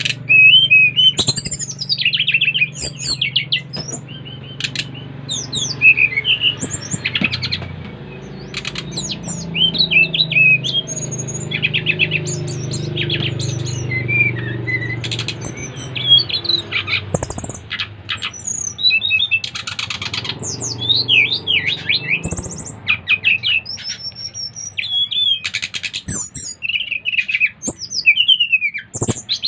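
SRDC (sikatan rimba dada coklat, a jungle flycatcher) singing vigorously: a fast, varied run of short chirps, trills and whistling glides with few pauses. A steady low hum runs underneath and fades out about two-thirds of the way through.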